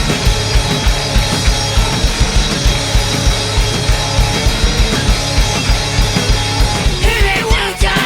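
Live rock band playing loud distorted guitars and bass over a drum kit, with a fast, even kick-drum beat. About seven seconds in, the dense wall of guitar drops away and the sound thins to separate guitar lines over the drums.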